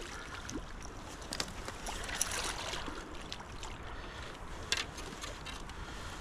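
Water sloshing and splashing as a hooked smallmouth bass is brought in to hand, with a few sharper splashes about a second and a half, two seconds and nearly five seconds in.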